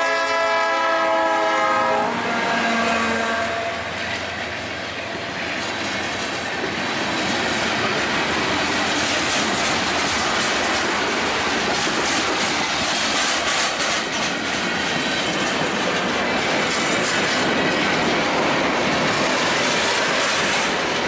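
Freight train's diesel locomotive blowing its horn, which cuts off about two seconds in. The train's covered hoppers and flatcars then roll past, their wheels clacking over the rail joints.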